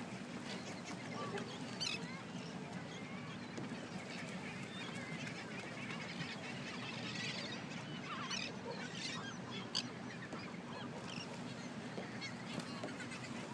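Sea lions barking, a scattered chorus of short honking calls over a steady low background wash.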